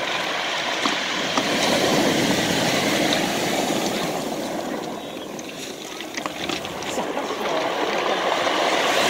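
Sea waves washing onto the shore, a steady rush that swells and fades, with a few faint clicks.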